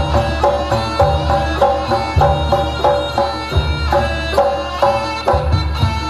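Instrumental passage of traditional Javanese music: hand drums play a steady pattern under repeating struck melodic notes, with no singing.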